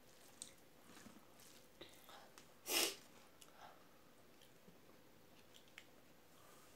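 Faint chewing and small wet mouth clicks as rice and curry are eaten by hand. A short, loud burst of noise comes a little under three seconds in.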